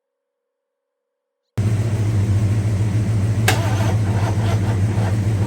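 Near silence for about a second and a half, then an engine running steadily with an even, pulsing low rumble, cut in abruptly. A single sharp click about two seconds later.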